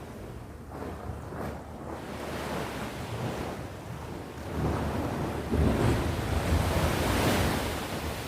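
Sea waves washing onto the shore: a steady surf hiss with a wave surging up about halfway through, loudest for a couple of seconds, then easing back near the end.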